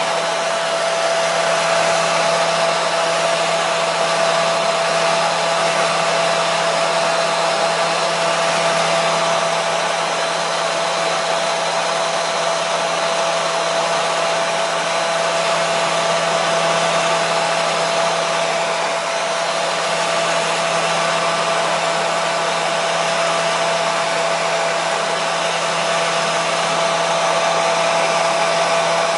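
Hair dryer running steadily at one speed: a constant blowing hiss with a steady motor hum tone through it, never changing.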